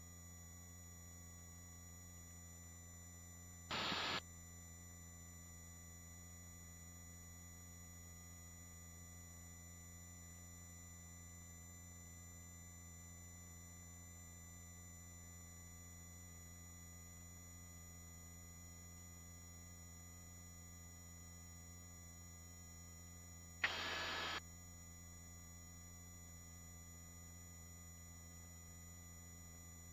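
Steady low hum with several fixed thin tones from a helicopter's headset intercom line, with two short bursts of noise, one about four seconds in and one near twenty-four seconds.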